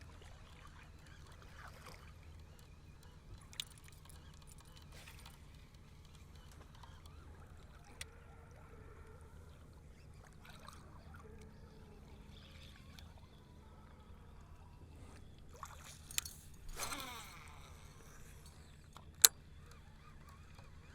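Fishing from a small boat: a low steady hum under scattered sharp clicks and knocks of tackle and hull. About three-quarters of the way through comes a brief rushing sound, and a single loud click or knock follows near the end.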